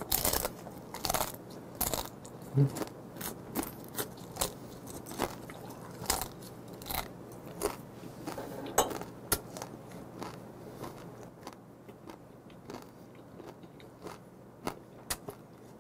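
Steamed female blue crab being crunched and chewed, shell and all: a run of irregular crisp crunches as the thin steamed shell breaks between the teeth, coming thick at first and thinning out toward the end.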